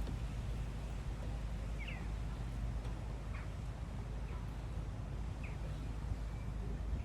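Several short, faint bird chirps scattered over a steady low rumble.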